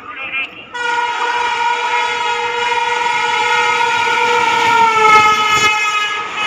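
Indian Railways electric locomotive's air horn sounding one long, loud blast that starts about a second in; its pitch drops around five seconds in as the train passes.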